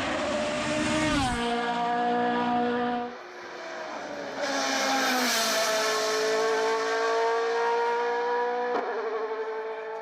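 Race car engine at full throttle on a hill climb. Its pitch drops sharply at a gear change about a second in, and the engine eases near three seconds. It then comes back louder and holds steady at high revs as the car goes by.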